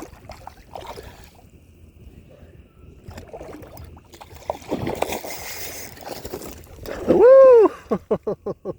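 Water splashing and sloshing for about a second and a half near the middle, as a hooked tarpon thrashes at the surface beside the kayak. It is followed by a loud whoop and a quick run of short yelps.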